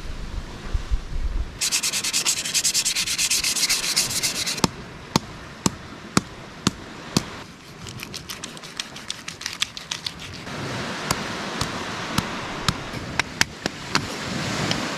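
Knife scraping and cutting at a lionfish on a driftwood log: about three seconds of fast, rhythmic scraping, then scattered sharp clicks and taps of the blade against the wood.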